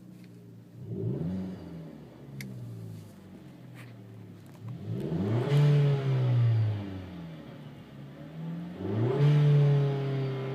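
A 2013 Chevy Sonic RS's turbocharged 1.4-litre four-cylinder heard from inside the cabin through a new aftermarket exhaust, accelerating. The engine note climbs three times, a short rise about a second in and stronger ones around the middle and near the end, each settling into a steady loud hum.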